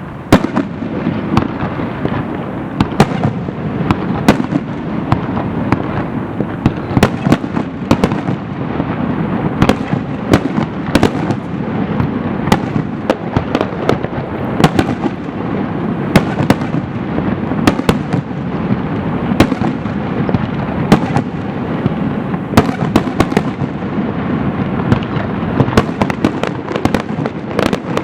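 Aerial fireworks going off in a rapid, continuous barrage: many sharp bangs and cracks, several a second, over a steady rumble of overlapping bursts.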